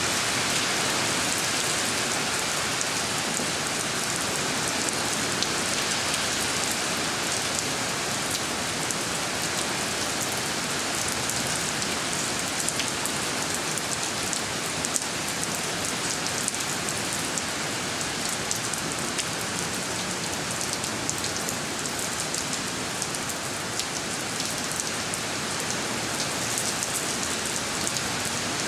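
Steady rain falling on a wet concrete driveway and puddles, an even hiss scattered with sharp ticks of individual drops.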